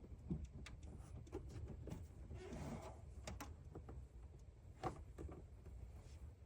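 Faint scattered clicks and taps of parts and tools being handled, over a low steady hum; the loudest click comes about five seconds in.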